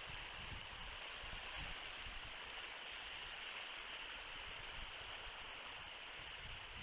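Steady wind noise on an outdoor nest-camera microphone: an even hiss with uneven low rumbles as the wind buffets the mic.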